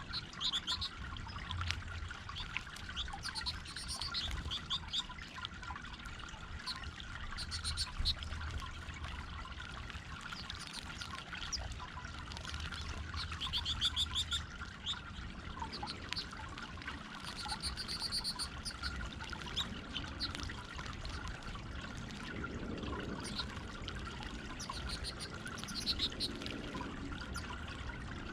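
Water trickling steadily over a garden stone fountain, with small birds chirping in short bursts every few seconds.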